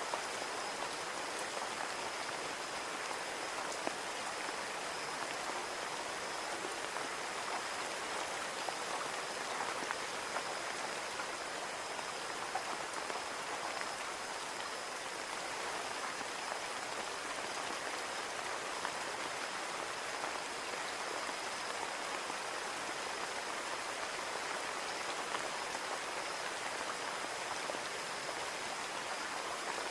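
Steady rain falling on a window pane: an even hiss with scattered small drop ticks.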